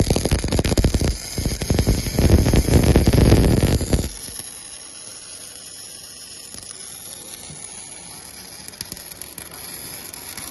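Harsh, crackling metalworking noise from a portable line boring or bore-welding machine for about four seconds. It stops abruptly, leaving a quieter steady hiss.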